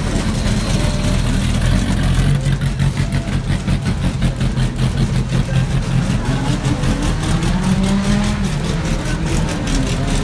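Racing car engines running and revving as the cars leave the pit lane. A steady low engine note has revs rising over it in the second half.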